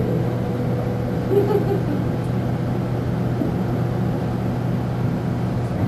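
Passenger train running: a steady rumble with a constant hum.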